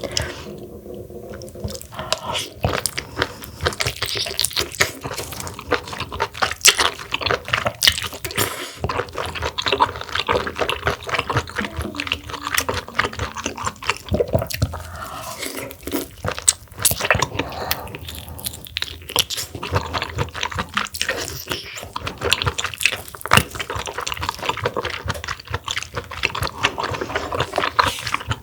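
Close-miked eating sounds of giant mussels and spicy mussel broth: wet chewing and slurping with many short, sharp clicks and smacks.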